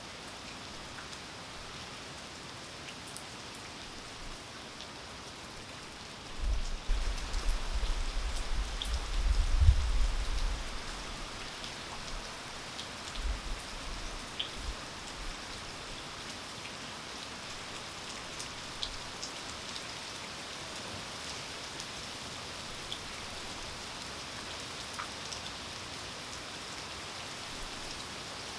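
Steady rain falling, with individual drops ticking close by. About six seconds in, a low rumble rises for around four seconds, and a few weaker ones follow a little later.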